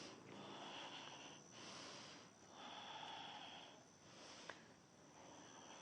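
Faint, slow breathing of a person standing at rest, several long breaths in and out, each about a second long. A faint steady high-pitched whine runs under it, with a small click about 4.5 seconds in.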